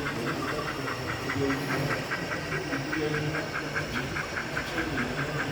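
Model steam locomotive chuffing steadily at a rapid beat, about six chuffs a second, with a hissing steam sound under it.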